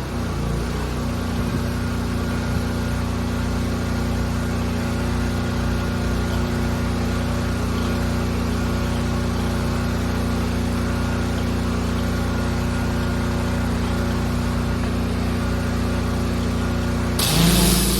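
Pressure washer engine running steadily with the spray gun off. About a second before the end, the high-pressure water spray starts again with a loud hiss over the engine.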